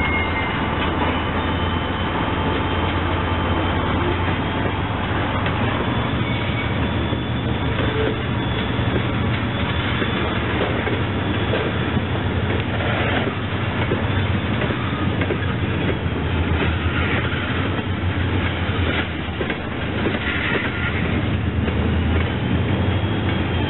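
Freight cars of a slow train rolling past, wheels rumbling steadily on the rails, with the low drone of the diesel locomotives working at the far end of the train underneath. A faint high squeal of wheels is heard near the start and again near the end.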